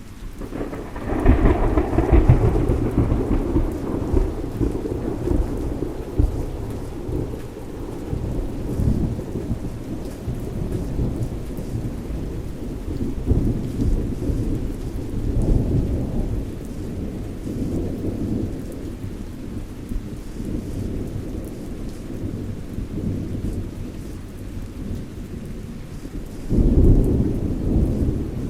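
Thunderstorm: steady rain with rolling thunder. A loud thunderclap about a second in rumbles away over several seconds, and another roll of thunder swells near the end.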